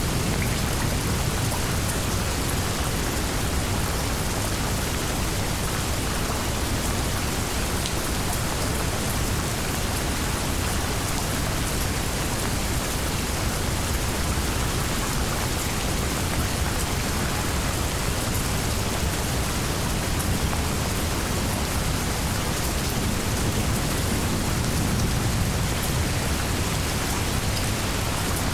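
Steady heavy rainstorm: a dense, even hiss of rain, with a low rumble of thunder swelling and fading about three quarters of the way through.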